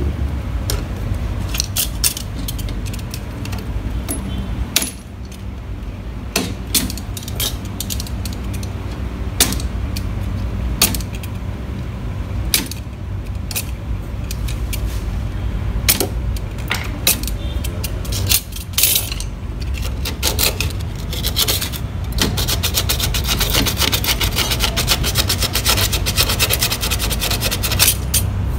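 Metal tools and fittings clinking, knocking and scraping against each other in scattered sharp strikes over a steady low rumble, with a dense run of rapid clicking and rasping in the last several seconds.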